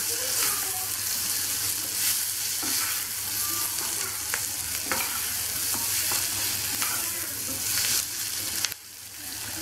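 Chopped onion frying with whole coriander and cumin seeds in oil, sizzling steadily while a wooden spoon stirs and scrapes around the saucepan. The sizzle briefly drops away near the end.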